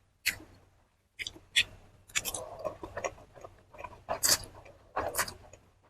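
A person chewing food close to the microphone, with sharp crackling crunches every second or so.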